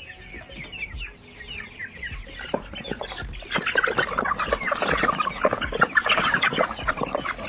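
A flock of chickens clucking and calling, a few scattered calls at first, then many birds at once, louder and busier from about halfway through, as they crowd to eat live superworms.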